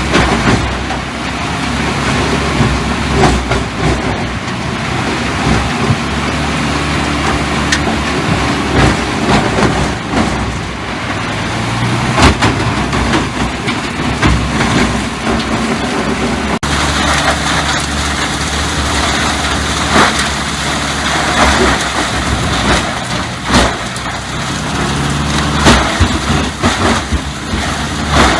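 A heavy tree-cutting machine's engine runs steadily under load, with frequent sharp cracks of wood breaking and splintering. The sound changes abruptly a little past halfway.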